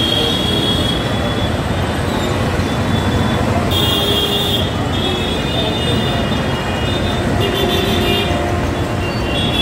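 Mumbai suburban electric local train running, heard from inside the coach: a steady rumble of wheels on the track, with high squeals that come and go several times.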